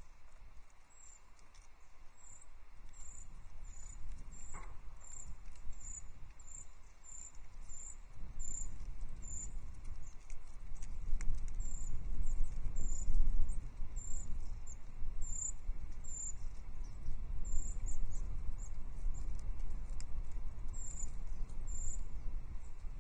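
Small tits giving a thin, high call over and over, about two calls a second with a few short gaps. Under the calls runs a low rumble and patter that grows louder from about eight seconds in.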